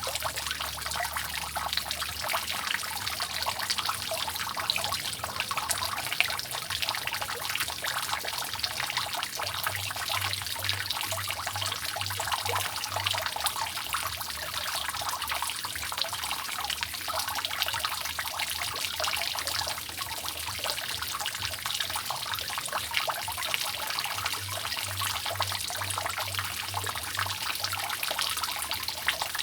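Water dripping and trickling continuously off a roof, a dense, steady patter of many small drops.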